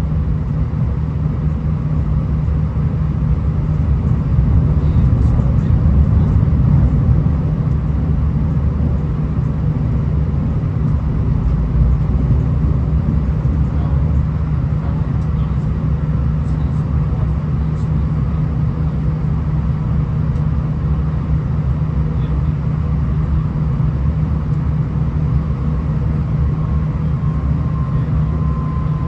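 V/Line VLocity diesel railcar heard from inside the passenger cabin while running: a steady low drone of engine and wheels on rail. A faint high whine comes in near the end.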